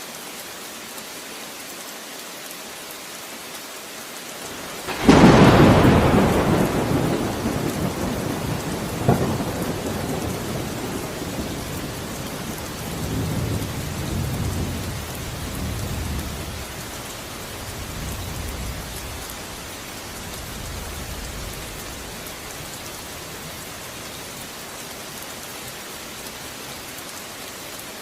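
Steady rain, broken about five seconds in by a sudden, loud crack of thunder. A second sharper crack follows a few seconds later, then rolling rumbles fade away over the next dozen seconds.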